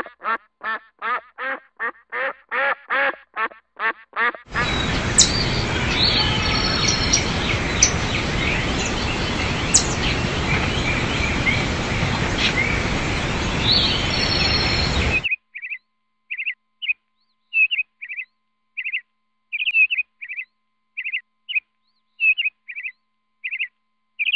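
Birds calling in three stretches: first a rapid run of short pitched calls, about four a second, that stops about four seconds in; then birds chirping over a steady outdoor hiss; then, from about fifteen seconds in, short high chirps about twice a second against near silence.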